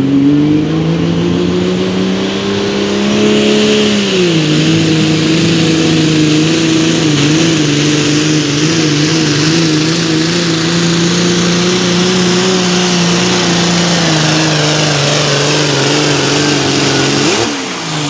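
Pulling vehicle's engine running flat out under load on a pulling run, with a high whistle above the engine note. Its pitch climbs over the first few seconds, drops sharply about four seconds in and then holds with a slight waver until the engine cuts off suddenly near the end, as the run ends.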